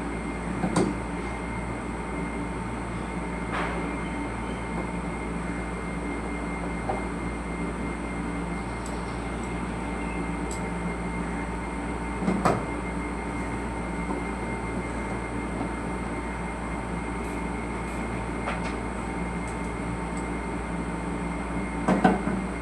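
A machine running with a steady hum and a few fixed tones, broken by four sharp knocks.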